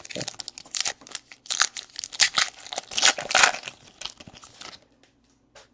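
Crinkling and tearing of a trading-card pack wrapper being handled and opened, a dense run of crackles that stops about five seconds in.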